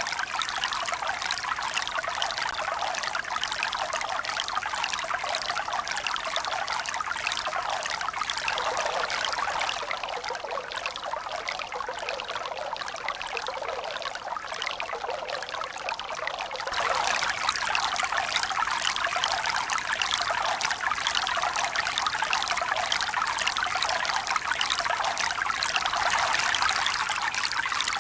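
Continuous running water, a steady splashing hiss. It softens and dulls about ten seconds in, then jumps back louder and brighter suddenly about seventeen seconds in.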